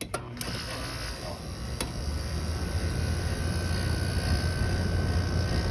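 Window air conditioner starting up: a click, then steady fan noise, with a low hum that grows stronger about two seconds in and a faint steady whine joining near the end.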